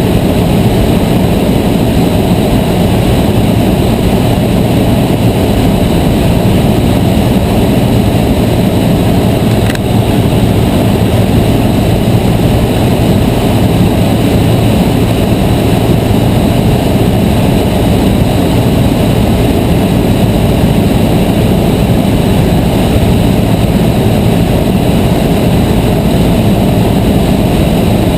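Cessna 152's four-cylinder Lycoming engine and propeller droning at a steady, unchanging pitch.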